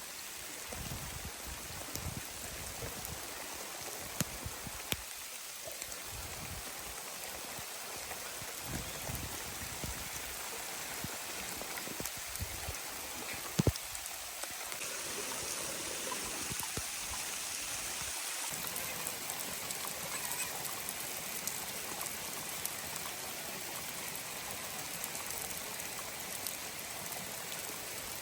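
Steady rain falling, with scattered drips and two sharp knocks about halfway through.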